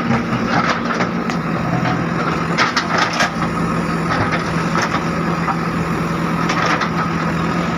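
JCB 3DX backhoe loader's diesel engine running steadily under load, with cracking and crunching as the old bridge is broken up. There is a cluster of sharp cracks about three seconds in.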